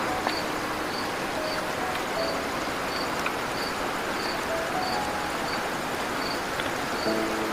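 Steady rush of running river water. Over it, an insect chirps in an even rhythm, about two high chirps a second, and a few brief pitched notes come and go.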